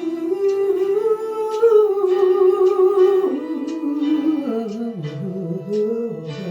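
Song passage with a voice humming or singing a wordless melody. It holds long notes with vibrato and slides between them, falling lower in the second half, over sparse acoustic guitar.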